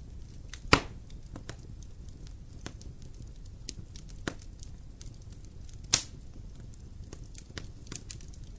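Fire in a fireplace crackling over a steady low rumble, with scattered sharp clicks and two loud pops, one about a second in and one about six seconds in.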